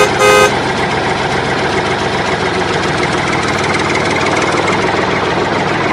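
Tractor engine running steadily, with a short, loud horn-like beep a fraction of a second in.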